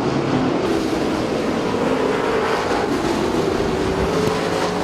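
A field of street stock race cars running at speed around the oval. Several engines blend into one steady, loud noise, with their pitches shifting a little as the cars pass.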